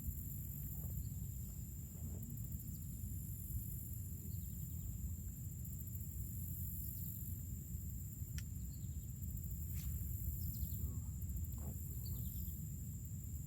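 Outdoor ambience: a steady low rumble and a steady high thin hum, with a few short chirps scattered through and two sharp clicks in the second half.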